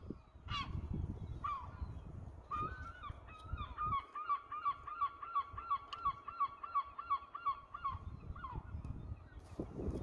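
Birds calling: a few single calls, then a fast, even run of short repeated calls, about three a second, for several seconds before stopping.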